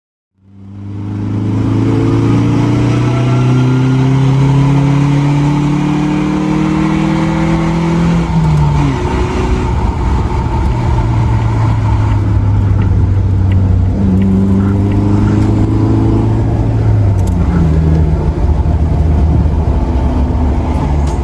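Suzuki Jimny Sierra (JB74) 1.5-litre four-cylinder running through an aftermarket SUXON side-exit muffler while driving. The exhaust note's pitch climbs slowly and drops twice, about eight and seventeen seconds in, as the engine pulls through the gears.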